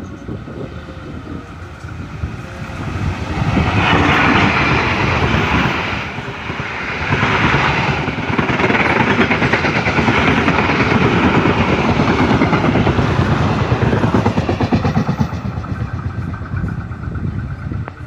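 A passenger train hauled by a CC201 diesel locomotive passing close by, its wheels rattling and clattering over the rails. The noise swells a few seconds in, dips briefly, stays loud through most of the pass, then eases off near the end.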